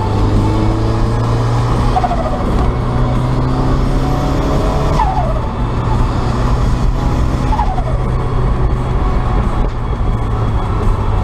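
Turbocharged 1.6 four-cylinder engine of a 1990 Mazda MX-5 (Garrett T25 turbo, straight-through exhaust) pulling under load as it rises in pitch through the revs. About two, five and seven and a half seconds in, the throttle lifts and the turbo's whine falls away sharply in pitch.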